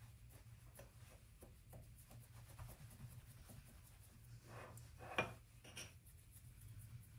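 Light handling noises: small taps and soft rubbing, with one sharper knock about five seconds in, over a low steady hum.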